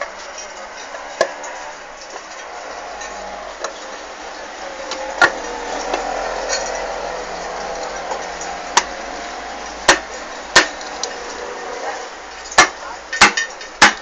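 Irregular sharp metallic knocks and clinks, as of tools striking and setting down on motorcycle engine parts during repair, several in quick succession near the end, over a steady background hiss.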